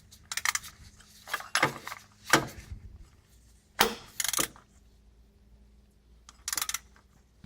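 Metal clicks and clinks of an oil filter wrench on a socket wrench, scattered irregularly with a few louder clanks, as the old oil filter is worked loose.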